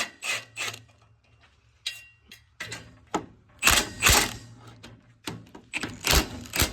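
Hand ratchet with a 14 mm socket clicking in short bursts of strokes, with pauses between, as the exhaust nuts are worked loose.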